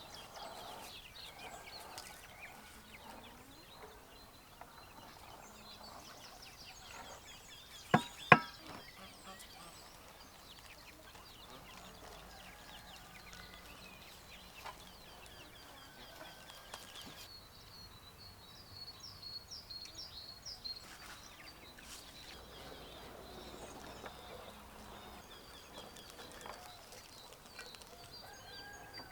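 Farmyard birds: chickens clucking and small birds chirping and trilling, with two sharp knocks close together about eight seconds in.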